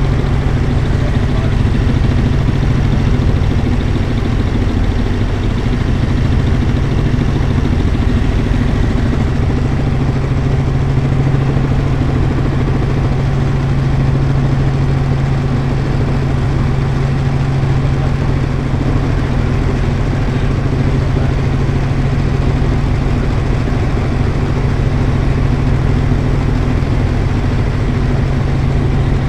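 Helicopter in flight: a steady, loud drone of engine and rotor, even in level with a strong low hum.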